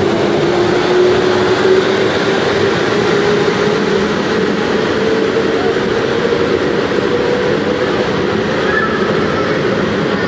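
Electric passenger train running past the platform: steady wheel and running noise, with a whine that rises slowly in pitch as the train picks up speed.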